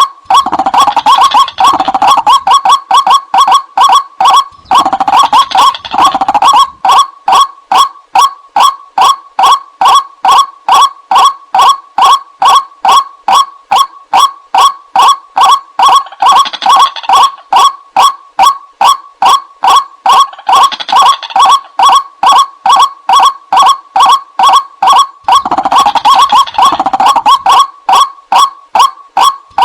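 White-breasted waterhen lure recording: a loud, unbroken series of harsh 'ruak' calls, about three a second, with fuller, busier stretches now and then.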